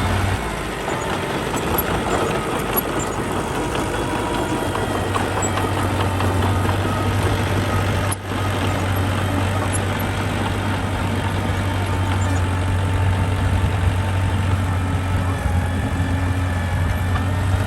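Diesel engine of construction machinery running steadily, with a brief dropout about eight seconds in.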